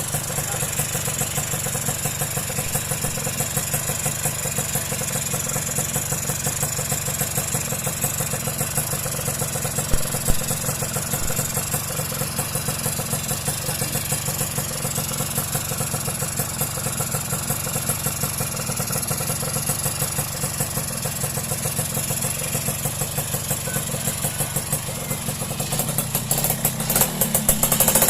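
Yamaha two-stroke motorcycle engine running steadily at idle, growing louder and rougher near the end.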